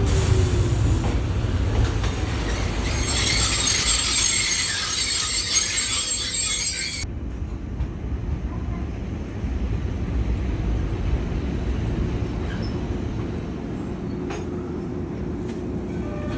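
Shintetsu Sanda Line electric train running on the rails with a steady low rumble. A high hiss rides on top for about the first seven seconds and cuts off suddenly.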